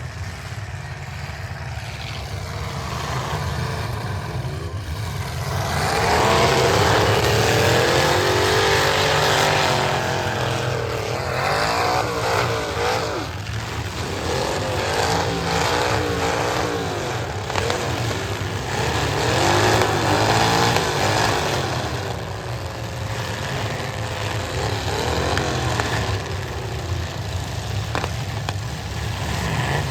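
Several demolition derby cars' engines revving hard at once, their pitches rising and falling against each other, growing louder about six seconds in.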